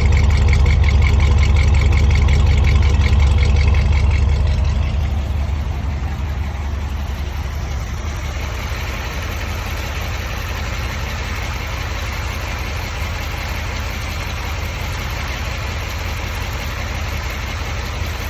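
1957 Ford Thunderbird V8 engine idling steadily. It is louder for about the first four seconds, then settles to a quieter, even idle.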